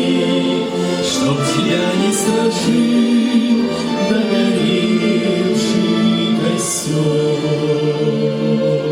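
Christian song with voices singing long held notes over a violin orchestra.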